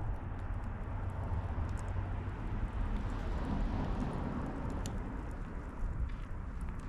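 Wood campfire burning: scattered sharp crackles and pops from the firewood over a low steady rumble.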